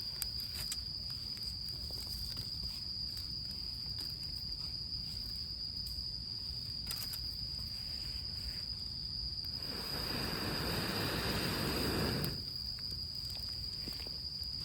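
Steady high-pitched chirring of insects such as crickets, over faint crackling of a freshly lit wood campfire. About ten seconds in comes a loud rush of air lasting about two and a half seconds, air blown into the fire through a fire-blowing pipe to feed the new flames.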